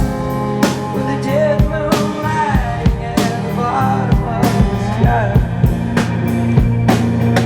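Live band music: a drum kit keeps a steady beat under guitar, with a wavering melody line gliding up and down.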